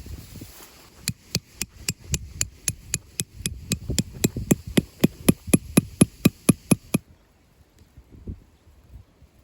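A quick, even series of hammer strikes, about three a second, growing louder, that stops suddenly.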